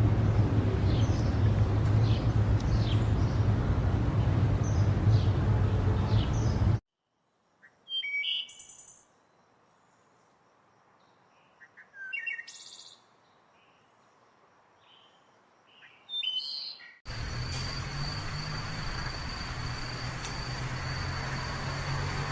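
Short, high bird chirps. They come faintly over a steady low hum and noise at first, then a few clear chirps against quiet after a sudden cut about seven seconds in. From about seventeen seconds there is a steady noise with a thin high whine.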